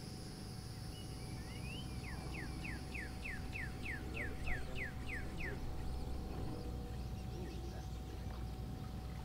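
A bird singing a quick run of about a dozen down-slurred whistles, roughly three a second, over a high thin insect buzz and a low rumble.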